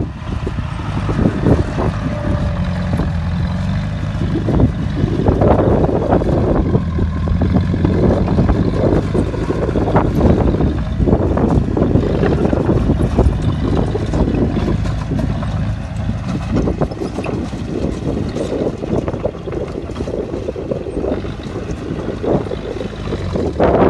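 Bulldozer's heavy diesel engine running hard under load, with frequent clanks and knocks over the steady engine sound.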